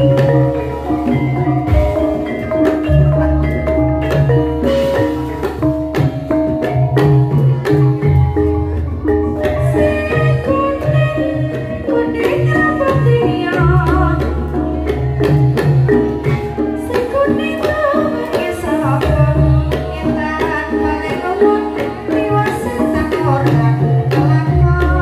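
Javanese gamelan playing: bronze metallophones striking the melody over regular deep kendang drum strokes, with a wavering sung line joining from about halfway that fits the sinden's voice.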